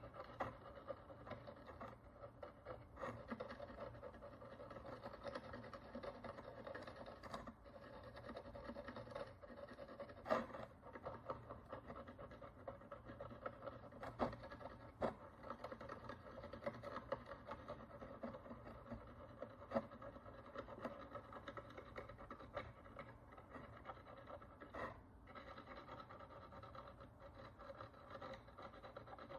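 Faint, continuous fine scratching and scraping of a hand tool working the encrusted surface of an ancient Roman bronze coin, with scattered sharp clicks of the tool on the metal. A steady low hum runs underneath.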